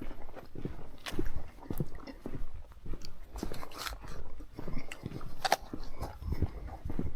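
Footsteps crunching along a hiking trail at a steady walking pace, roughly two steps a second.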